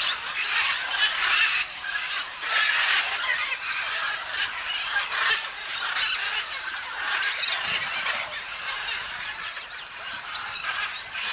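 Parrots squawking and screeching over and over, harsh overlapping calls with no pause.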